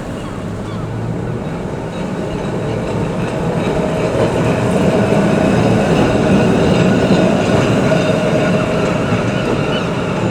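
Heritage electric tram running along its rails, the wheel-and-track noise growing louder to a peak about six seconds in, then easing off a little.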